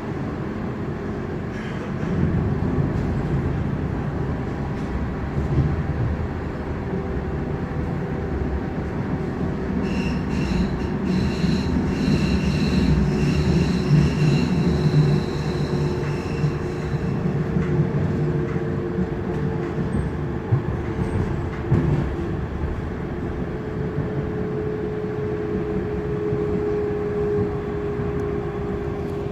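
Frankfurt U-Bahn (Stadtbahn) train running, heard from inside the car: a steady rumble of wheels on rail with a constant motor hum. The noise grows louder about two seconds in, and a high-pitched wheel squeal sets in about ten seconds in and lasts several seconds.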